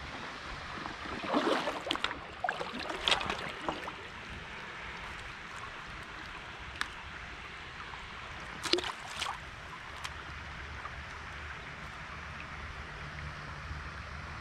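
Water splashing and trickling around a kayak. There are louder splashes about a second and a half in, around three seconds in and near nine seconds, and a few short sharp clicks.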